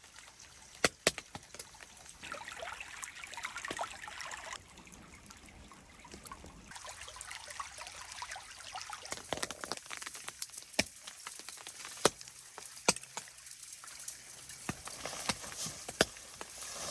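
Water trickling, with scattered sharp ticks about every second or two.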